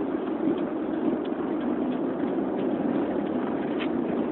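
Steady, even running noise of a vehicle, heard from inside the cab, with a few faint ticks.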